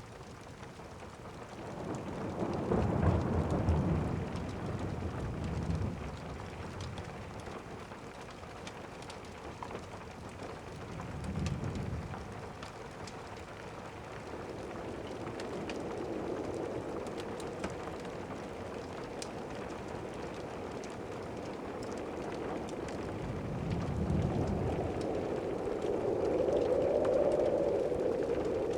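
Steady rain with rolling thunder: a long rumble a couple of seconds in, a shorter one about 11 seconds in, and a longer one that builds near the end. Faint scattered crackles of a log fire sit under the rain.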